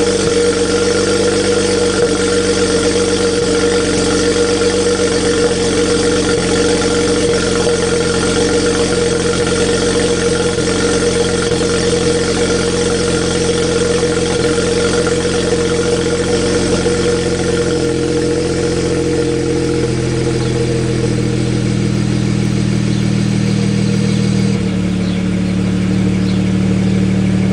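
BMW 335i's 3.0-litre straight-six, fitted with Riss Racing downpipes, idling steadily at the exhaust tip. The note settles lower about twenty seconds in.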